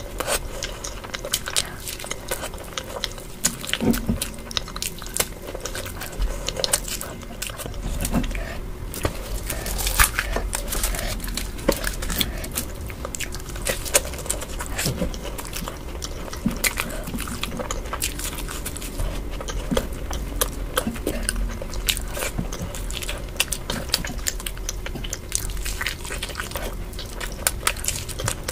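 A person chewing and biting mouthfuls of daal kachori dipped in aloo sabji: a continuous run of crackles, clicks and wet mouth sounds.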